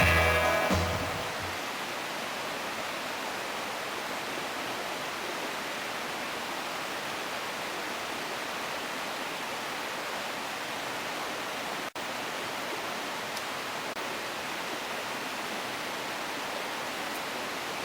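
Rushing water from a river or waterfall: a steady, even hiss that drops out for an instant about twelve seconds in.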